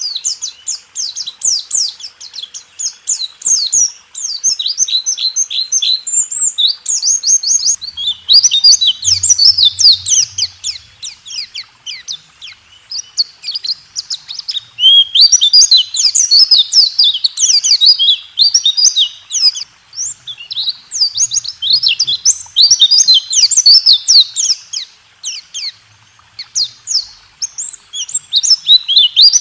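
White-eye (pleci) singing a long, fast rolling song of rapid, high-pitched falling notes mixed with sharp 'tembak' shot notes, with a few short pauses between phrases.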